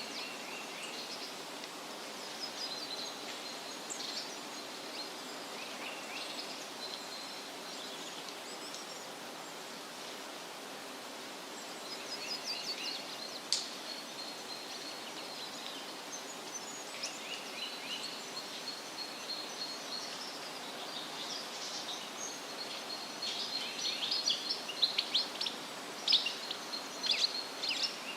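Wind rustling steadily through leaves, with small songbirds chirping and calling over it. The birdsong comes in scattered phrases, then turns busier with quick runs of sharp chirps near the end.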